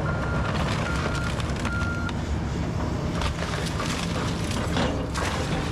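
Kobelco SK210 excavator's diesel engine running under load while it demolishes a brick house. A backup alarm gives three short beeps in the first two seconds. From about three seconds in, debris cracks and crashes as the machine breaks up the structure.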